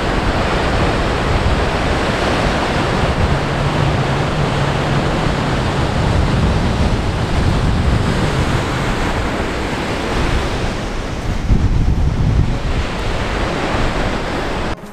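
Loud, steady rushing of wind and ocean surf on the microphone, swelling and easing a little. It cuts off suddenly just before the end.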